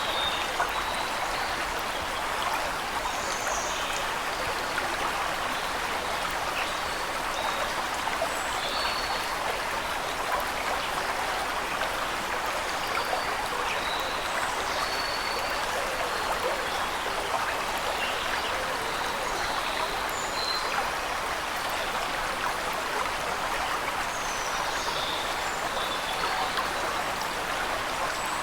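Steady rush of a waterfall, with short high bird chirps scattered throughout.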